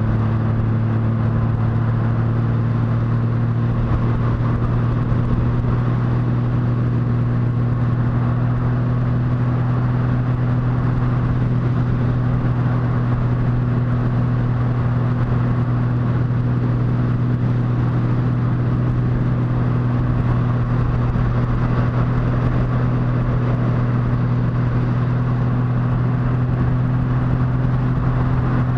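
Motorcycle engine running at a steady cruise, its pitch creeping up slightly over the stretch, with a constant rush of wind and road noise.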